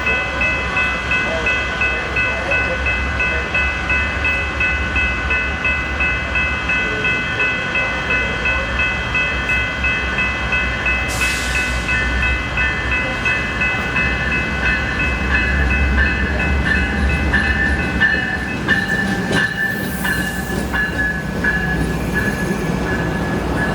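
A train at the platform: a bell rings in a steady beat, about twice a second, over the low, constant rumble of a diesel locomotive engine. Two short hisses come about halfway through and again near the end.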